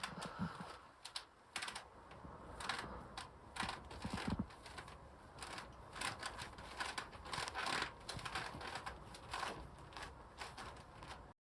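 Irregular light clicks and taps, several a second, with a few dull thuds about half a second and four seconds in.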